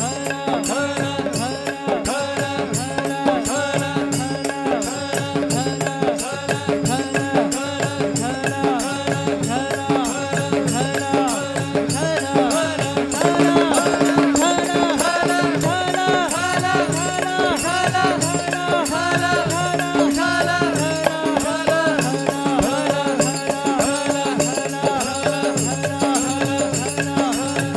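Devotional bhajan music: melodic singing over a steady drone, with quick, evenly spaced percussion strikes keeping the rhythm.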